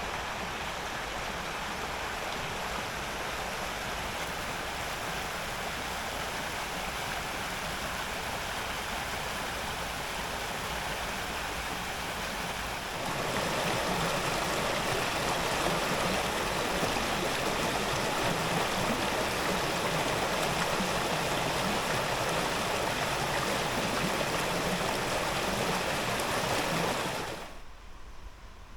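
Rushing water of a stream, a steady even noise that gets louder about halfway through and cuts off abruptly near the end.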